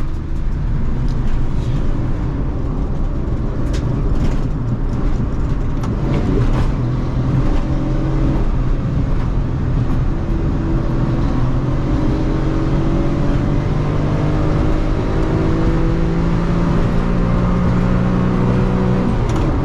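Suzuki Alto's 660cc three-cylinder engine heard from inside the cabin, with road noise, pulling under steady acceleration, its pitch climbing slowly over the second half before dropping sharply near the end.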